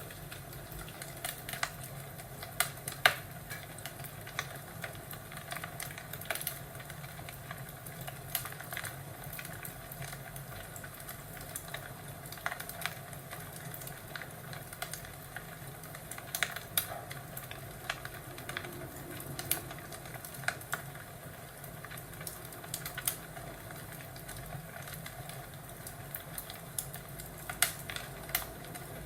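Crackling wood fire: irregular sharp pops and snaps over a steady low hiss, with one louder pop about three seconds in.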